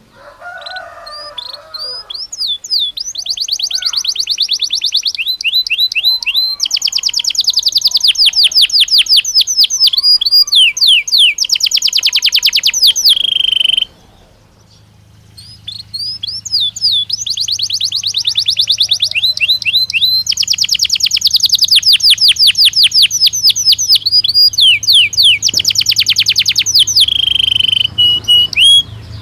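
Domestic canary singing two long song phrases with a short pause between them about halfway through. Each phrase runs through fast trills of rapidly repeated notes and slower whistled sweeps, and ends on a held note.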